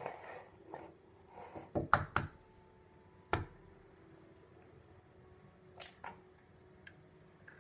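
A few short, sharp knocks and clicks, as of objects being handled and set down: a quick cluster about two seconds in, one at about three and a half seconds, and two more near six seconds. A faint steady hum runs underneath.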